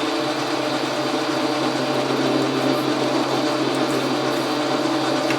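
Logan metal lathe running steadily through a long cut, a constant mechanical hum with no change in pitch.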